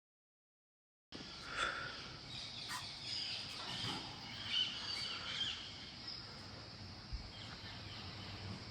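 Outdoor ambience: scattered bird chirps over a steady high hiss, starting after about a second of dead silence.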